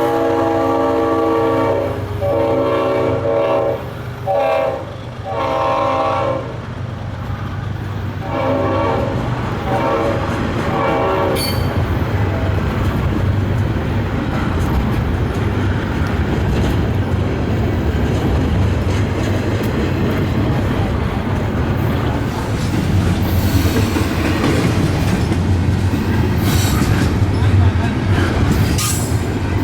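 Diesel locomotive's multi-chime air horn sounding several blasts, the last one fainter and ending about eleven seconds in, followed by the steady rumble and clatter of a long intermodal freight train rolling past, growing louder near the end.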